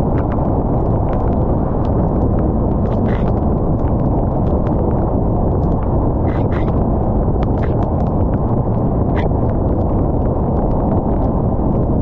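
Rain: a steady, loud, low rushing noise with scattered sharp ticks of drops striking close by.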